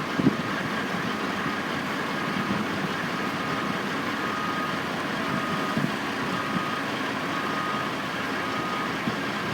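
Construction-site noise: a steady din of working machinery and engines, with a vehicle's reversing alarm beeping roughly once a second from about three seconds in.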